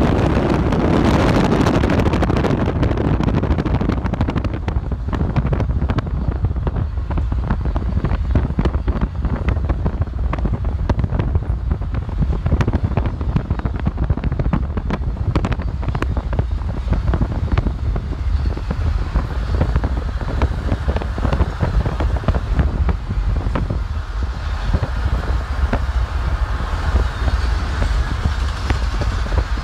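A long double-stack intermodal freight train rolling past with a steady low rumble and many sharp clicks and knocks from its wheels and cars. It is louder for the first couple of seconds, as the Union Pacific diesel locomotives go by.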